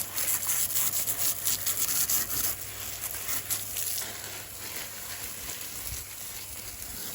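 Garden hose spray hissing as water hits plants and soil, loudest for the first two or three seconds, then softer.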